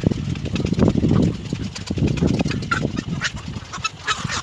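A few short, high chirps from bar-winged prinia nestlings in the second half, over a low, continuous rumble.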